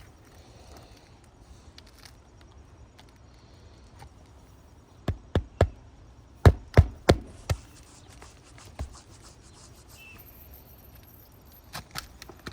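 A run of sharp knocks on the roof during shingle repair work: three quick knocks about halfway through, then four more in a row just after, with a few fainter taps near the end.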